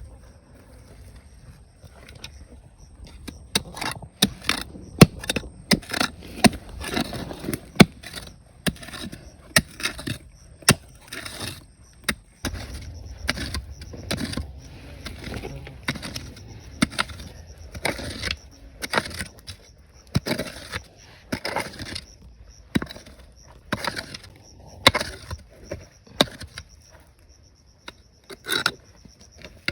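Irregular sharp clacks and knocks of rocks and gravel being dug and handled in a riverbed, at times several a second.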